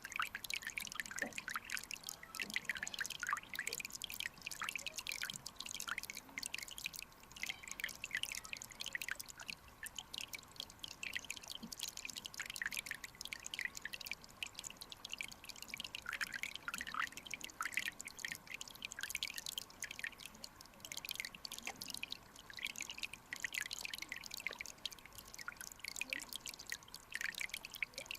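Shallow mountain stream trickling over rocks, a dense, irregular patter of small splashes and drips over a faint steady rush.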